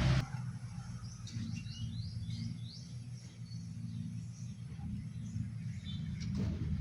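A bird calling: a quick series of about five short, falling chirps about a second in, over a steady low background hum.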